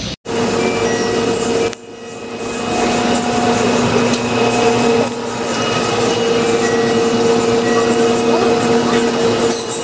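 A steady machine hum with a low whirring noise, holding a few constant tones, after a brief dropout at a cut just at the start.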